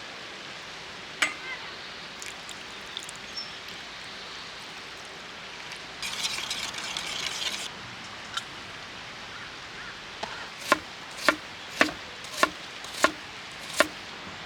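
Camp cooking: a knife chopping on a cutting board, six even knocks about half a second apart near the end, with a short hissing burst like food sizzling in a pan in the middle. A steady hiss of the valley stream runs underneath.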